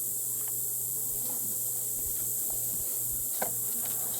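Honeybees buzzing steadily around an open hive, over a steady high-pitched hiss, with a few light clicks.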